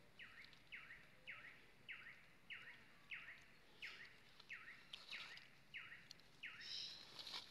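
A bird calling faintly: a regular series of about eleven short notes, each sliding down in pitch, nearly two a second. A brief rustle near the end.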